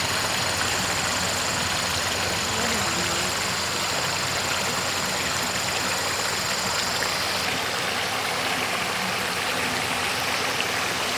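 Stream water rushing steadily and close, an even wash of noise. A thin, high, steady whine sits over it for the first seven seconds or so.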